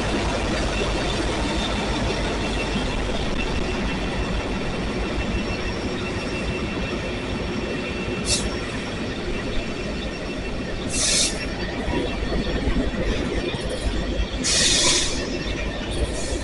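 Empty coal train's cars rolling slowly past, a steady rumble of steel wheels on rail, with a few short high-pitched wheel screeches about 8, 11 and 15 seconds in.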